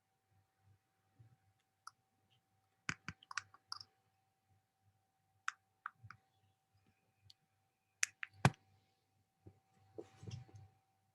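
Scattered sharp clicks and taps in small groups, the loudest about eight and a half seconds in, over a faint steady tone and low hum.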